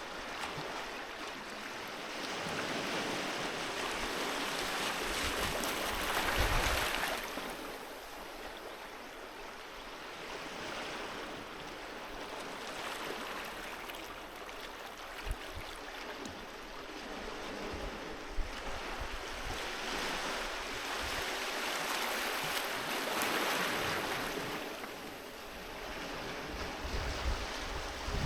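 Sea waves breaking and washing onto a beach, the surf swelling and fading in slow surges, with the biggest swells about six seconds in and again about two-thirds of the way through.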